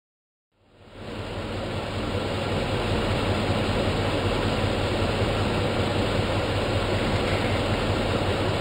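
Silent for the first half second, then a vehicle's engine running steadily, heard from inside the cab as a low hum under a fan-like hiss.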